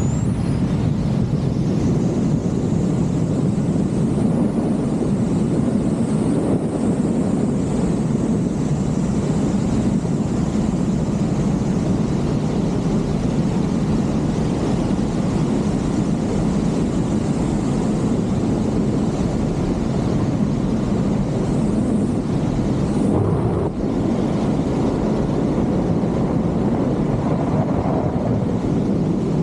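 Loud, steady rush of a waterfall mixed with wind buffeting the microphone. A thin, high whine runs above it.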